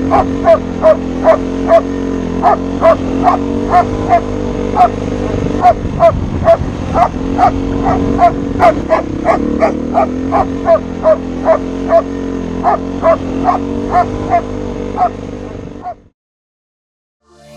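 German Shepherd barking over and over, about three loud barks a second, over a steady low drone; it all cuts off suddenly near the end.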